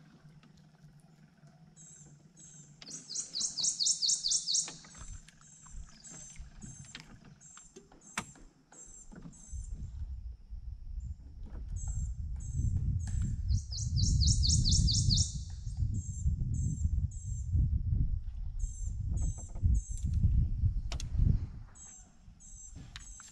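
Small birds calling: a short high chirp repeated over and over, twice broken by a loud, rapid high trill lasting a second or two. From about ten seconds in, a low rumble runs underneath.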